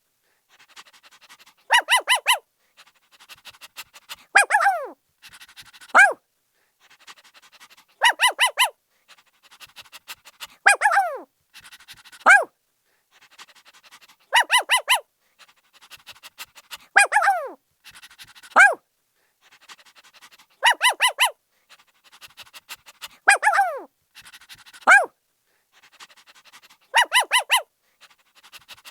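Puppy yapping in quick clusters of three or four high barks, each cluster followed by one or two yelps that fall in pitch. The same sequence repeats about every six seconds.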